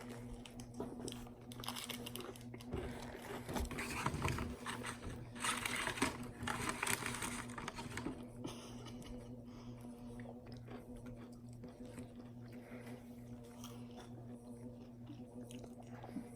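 Biting into and chewing a Popeyes spicy fried chicken sandwich: the breaded chicken crust and bun crunch in the mouth, loudest in the first half, then quieter chewing. A steady low electrical hum sits underneath.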